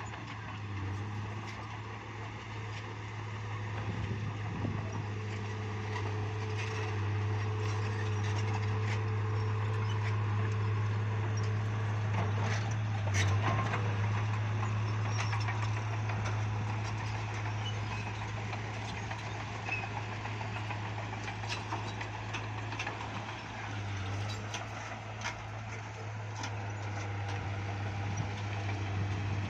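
Bulldozer's diesel engine running steadily with a deep hum, with scattered short clicks over it.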